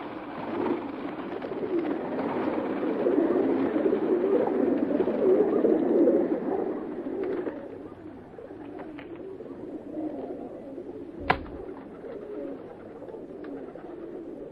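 A flock of birds calling all together in a dense, low chattering and cooing mass, swelling to its loudest in the first six seconds and then easing off. One sharp click stands out about eleven seconds in.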